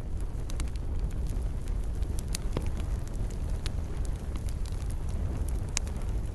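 Campfire burning: a steady low rumble of flames with scattered sharp crackles and pops from the burning wood, a few louder pops standing out, one of the strongest near the end.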